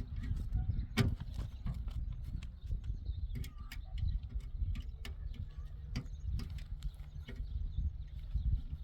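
Irregular sharp clicks and knocks over a steady low rumble.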